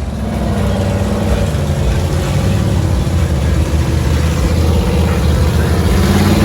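Large off-road truck engine running loudly, getting louder over the first second or so and then holding steady.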